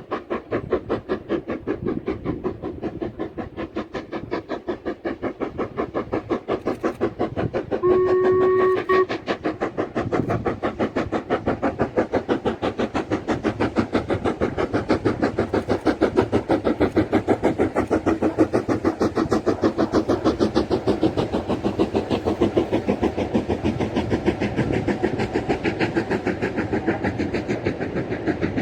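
LMS Black Five steam locomotive working hard, its exhaust beats coming in a fast, even chuff that grows louder as it approaches. About eight seconds in, the whistle gives one short blast of about a second.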